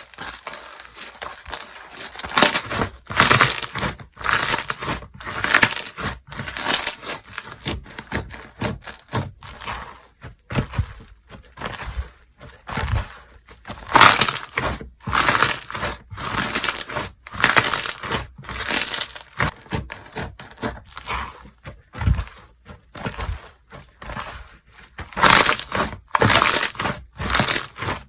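Slime being pressed, stretched and folded by hand, giving irregular bursts of sticky pops and clicks about once a second.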